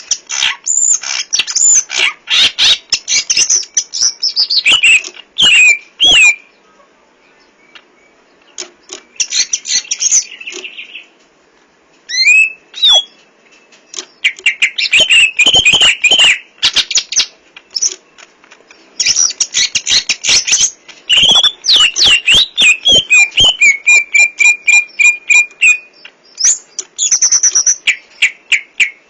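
A cucak ijo (green leafbird) singing loudly in bursts of rapid, varied whistled phrases, full of fills, broken by short pauses. It includes a long, even trill about two-thirds of the way through.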